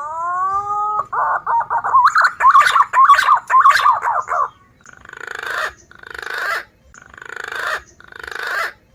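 Recorded punai (green pigeon) calls played as a trapping lure. A drawn-out whistle rises into a run of quick warbling whistles, then four harsh rasping calls, each swelling louder and stopping short.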